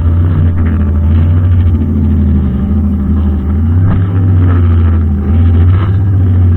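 Brushcutter engine running steadily at a constant pitch, with a few brief surges in its higher sound about four to six seconds in.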